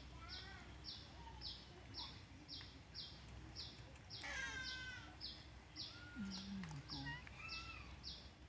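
Faint birdsong: a high chirp repeating about twice a second, with other short calls here and there and one louder, harsher call about four seconds in.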